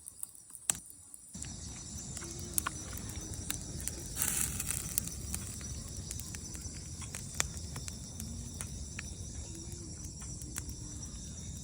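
Wood bonfire crackling, with many sharp pops and snaps over a dense low rush that starts about a second in, and a brief hiss near the middle. Insects trill steadily in the background.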